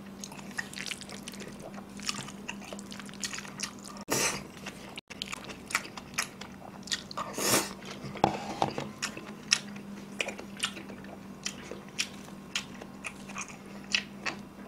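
Close-up chewing and wet mouth smacks of someone eating stir-fried black bean noodles, with many short sticky clicks and two longer slurps of noodles about four and seven and a half seconds in, over a faint steady hum.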